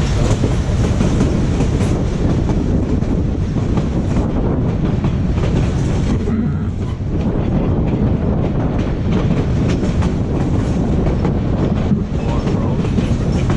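White Pass & Yukon Route narrow-gauge passenger train rolling along the track: a steady rumble of the railcar with irregular clicking and clacking of wheels over the rails.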